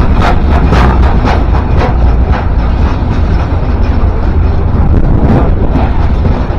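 A train passing close by: a loud, heavy rumble with a quick run of wheel clacks over the rail joints in the first couple of seconds, settling into a steady roar.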